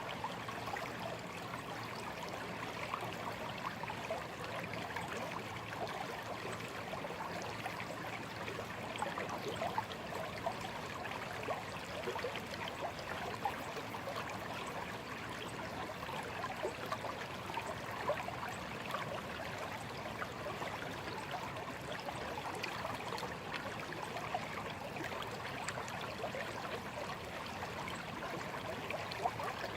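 Shallow stream babbling and trickling steadily over stones, a dense run of small splashes and gurgles without a pause.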